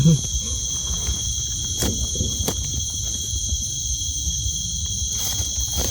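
Steady high-pitched chorus of night insects, with a low rumble and a few faint clicks or rustles underneath.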